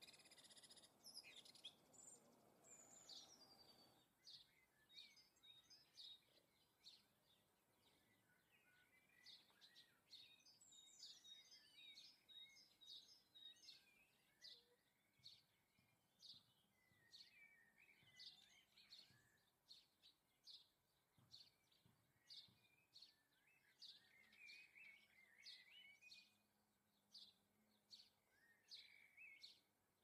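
Faint garden birdsong: short, high chirps about once a second, mixed with brief bursts of twittering calls from small birds.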